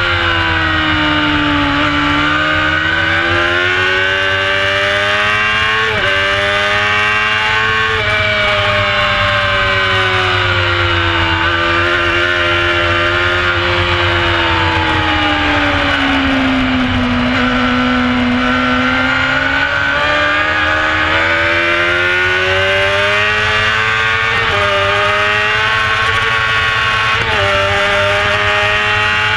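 Onboard sound of a carburetted 600cc four-cylinder race bike, a Honda CBR600 F4, at racing speed: the engine pitch falls and climbs with the revs through a run of corners, with a few sudden steps at gear changes, dipping lowest about two-thirds of the way through. Wind rushes on the camera microphone underneath.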